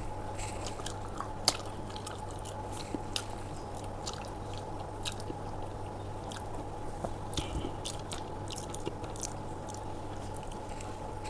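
A person chewing and biting aloo paratha with dahi close to the microphone: irregular mouth clicks and smacks, with one sharp click about one and a half seconds in, over a steady low hum.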